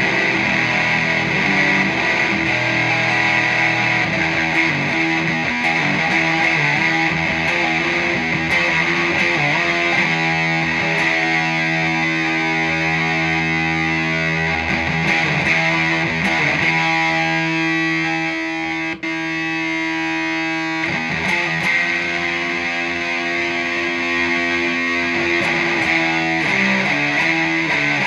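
Fender Esquire electric guitar played through the Stomp Box Fuzz pedal with both of its fuzz channels stacked, into a clean amp: heavily fuzzed chords, each let ring for a few seconds before the next. The sound briefly drops away just before the middle.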